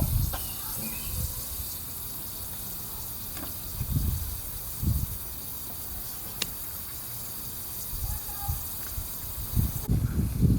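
Water spraying from a garden hose onto a car, a steady hiss that cuts off suddenly near the end, with a few low thumps and a click.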